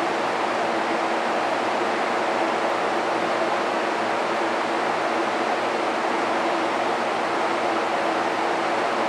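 A diesel-electric locomotive running steadily: a dense, even roar with a few faint steady hum tones beneath it, unchanging throughout.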